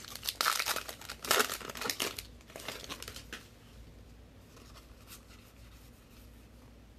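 Crinkling and tearing of a trading-card pack wrapper being ripped open, busiest in the first three seconds, then fading to light rustling.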